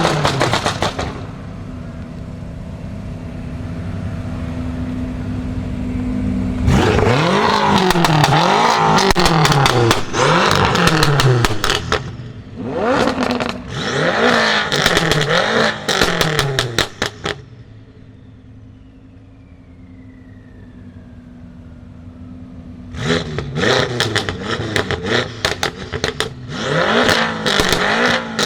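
BMW M5 F10 30 Jahre's twin-turbo 4.4-litre V8, fitted with catless downpipes and an M Performance exhaust, idling and then blipped in three series of quick revs, about one a second. Each series has sharp crackles and pops on the overrun, with a quieter stretch after the second series.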